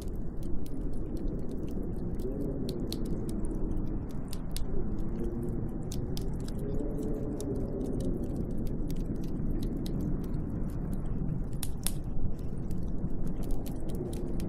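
Snowstorm wind blowing steadily, with a faint wavering tone rising and falling through it, over a constant scatter of small sharp ticks and crackles.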